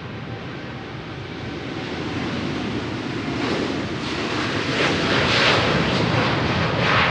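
Jet airliner engines passing close, a rough noise that grows louder from about two seconds in and is loudest near the end.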